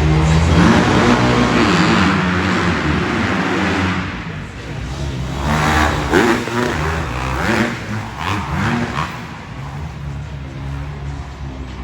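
Several motocross dirt bike engines running and revving, loudest in the first few seconds, then a series of throttle blips with quick rises in pitch before settling lower.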